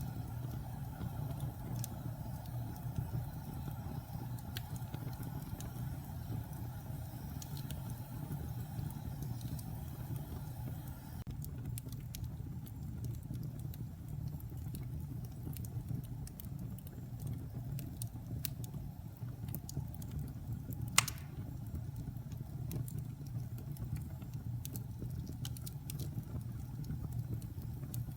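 Wood fire burning in a fireplace: a steady low rumble of flames with scattered faint crackles, and one sharp pop about twenty-one seconds in.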